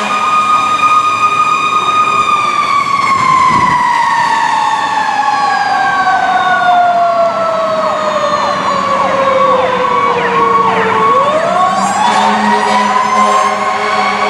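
Fire engine sirens sounding on an emergency response. One siren winds slowly down in pitch for about nine seconds, then winds back up near the end, over a steady high siren tone. A lower steady tone is heard at the start and again near the end.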